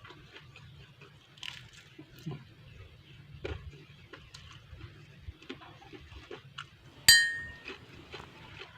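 Scattered small clicks and crunches of someone eating fried snacks. About seven seconds in comes one sharp, ringing clink of tableware, a dish or glass being struck.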